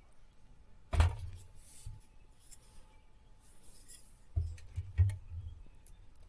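A few knocks and thumps with rustling in between, as of objects being handled and set down: one sharp knock about a second in, then a cluster of thumps about four to five seconds in.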